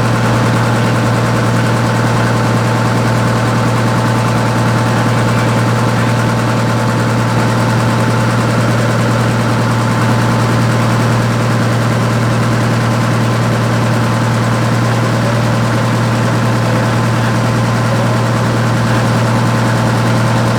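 A fishing boat's engine running steadily in its engine room: a loud, even hum that holds its pitch.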